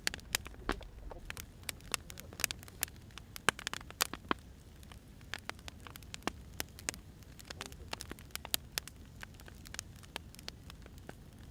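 Firewood burning, crackling with irregular sharp pops, some close together and some further apart, over a low steady rumble.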